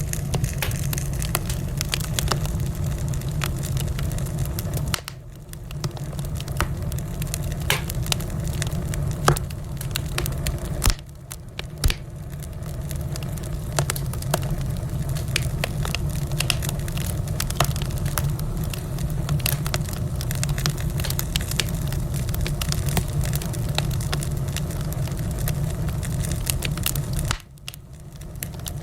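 Wood fire crackling, with many small sharp pops over a steady low rumble, and a few louder pops near the middle.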